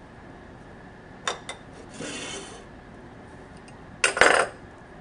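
Handling of small parts and kit packaging on a work surface: two light clicks, a brief rustle, then a louder scraping clatter near the end.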